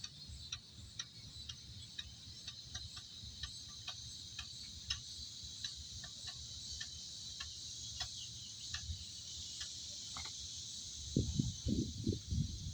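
Insects chirring steadily in the background, with scattered light ticks throughout and a few low knocks near the end.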